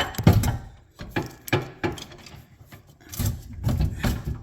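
Irregular knocks and scraping of hitch hardware being handled while a sprayer is fitted to a tractor's lift arms.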